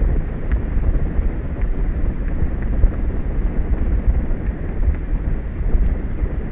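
Wind buffeting an exposed outdoor microphone: a steady, loud low rumble with a gusty flutter.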